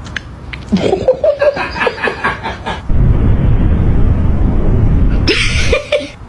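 A person laughing in short, rapid bursts for about two seconds. Then a loud, steady low rumbling noise takes over for about three seconds, with a brief hiss near the end.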